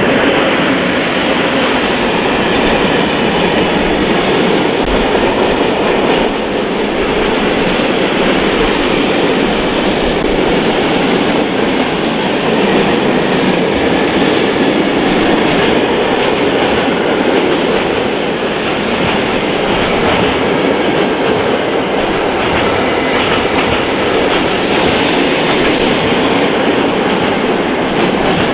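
Freight train of open coal wagons, hauled by an ET22 electric locomotive, passing close by at speed. Steel wheels run on the rails with steady, loud clatter that carries on with no let-up as wagon after wagon goes by.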